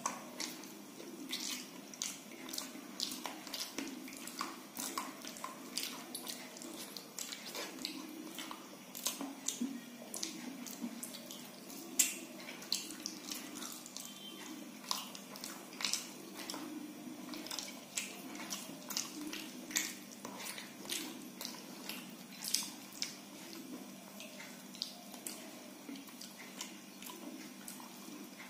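Close-up chewing and wet mouth smacking as fried pointed gourd and potato are eaten by hand: irregular crisp clicks and smacks several times a second over a steady low hum.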